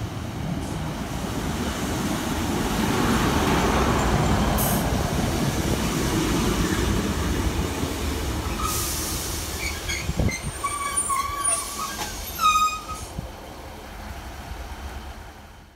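Class 153 single-car diesel multiple unit running into the platform, its engine and wheels rumbling louder as it passes. It then slows to a stop, with a short hiss of air and squealing brakes, the sharpest squeal near the end.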